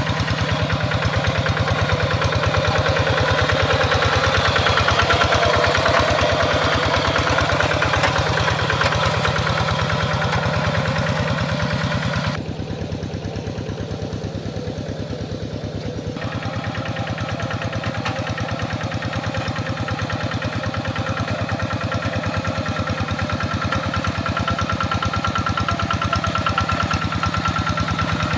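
Tractor engine running steadily with an even firing beat. About twelve seconds in the sound turns duller for roughly four seconds, then comes back.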